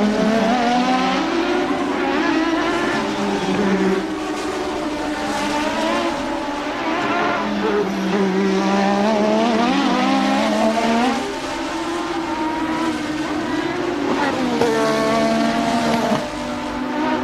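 1988 Formula One car engine running hard, its pitch repeatedly climbing and falling away, with sudden drops in loudness about 4, 11 and 16 seconds in.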